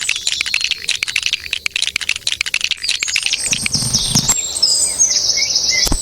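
Birds chirping: a dense run of quick chirps for the first few seconds, then a steadier high trill near the end. A brief low rumble comes about four seconds in, and a sharp click just before the end.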